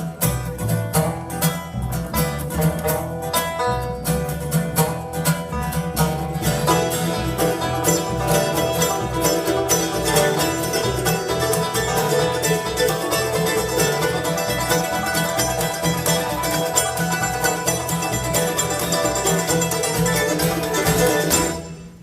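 Bluegrass band playing an instrumental passage with banjo and guitar over a steady low pulse. About six seconds in the playing fills out, and it falls away abruptly just before the end.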